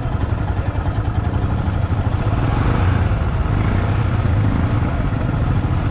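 A vehicle under way: a steady low engine drone with road and wind noise, the rushing noise swelling a little around the middle.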